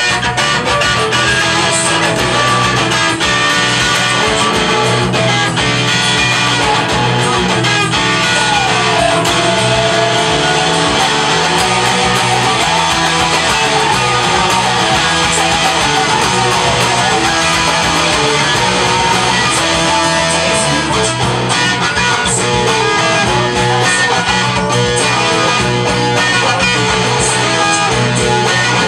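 Electric guitar played along with a full-band rock recording, with one note sliding down in pitch about eight seconds in.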